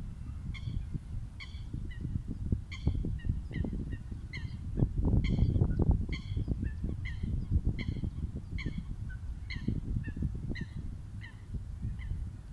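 A bird's short calls repeated about twice a second, over wind noise on the microphone that rises for a moment around the middle.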